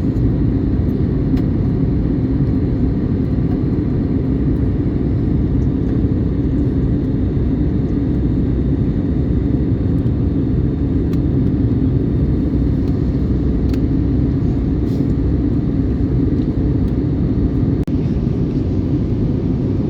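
Steady low cabin rumble of an Airbus A321neo airliner in flight: airflow and engine noise heard from inside the passenger cabin, holding even throughout.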